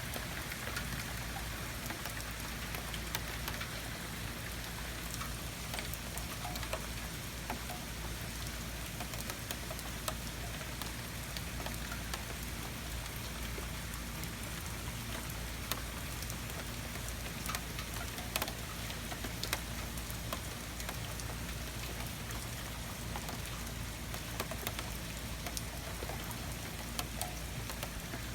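Heavy rain pouring steadily, with scattered sharp ticks of individual drops striking close by.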